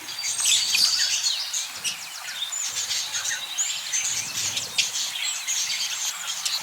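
Budgerigar chattering: a continuous run of quick, high chirps and short whistles.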